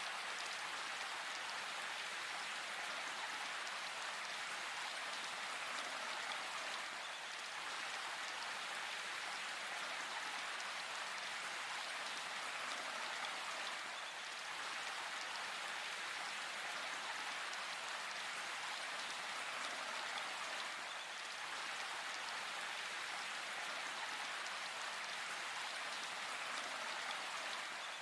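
Steady rain falling in a forest: an even hiss of many drops that holds level throughout, with no thunder.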